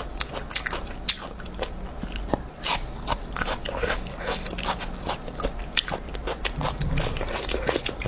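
Close-up chewing of crunchy spicy beef skin strips: irregular small crisp crunches and wet mouth clicks, one bite after another.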